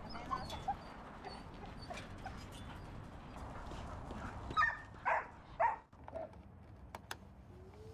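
Golden retriever whimpering and yipping in short calls, three louder ones a little past halfway. A couple of sharp clicks near the end.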